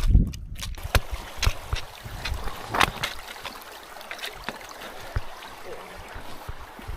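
A stream running, an even rush of water, with scattered light clicks and knocks.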